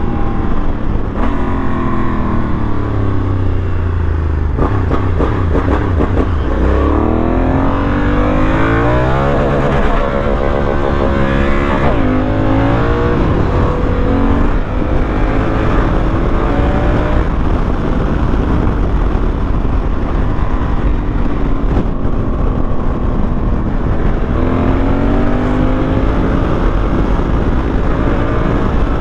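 Honda Africa Twin motorcycle engine under way, its pitch rising as it accelerates and dropping at each gear change, several times over, under a steady rush of noise.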